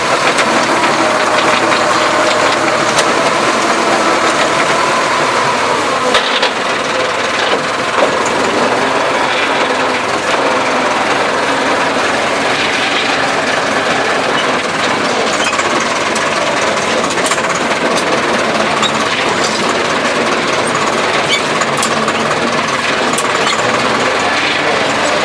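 Massey Ferguson tractor engine running steadily while working a field, its pitch wavering slightly, with a continuous metallic rattle and clatter of loose parts and the implement.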